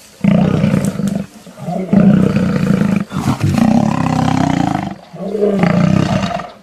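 Lions snarling and roaring in four long, loud calls, one after another.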